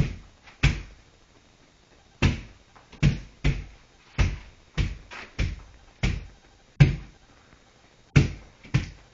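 A series of dull thuds, about a dozen, coming at uneven gaps of half a second to a second and a half.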